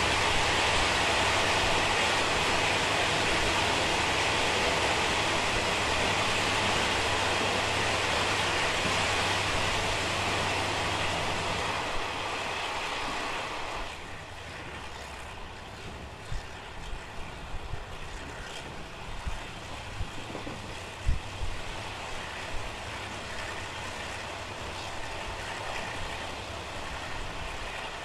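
Taiwan Railways non-air-conditioned ordinary passenger coach running at about 65 km/h. A loud rushing roar inside a tunnel falls away about 14 seconds in as the train comes out into the open. After that comes quieter running with scattered knocks from the wheels and the coach.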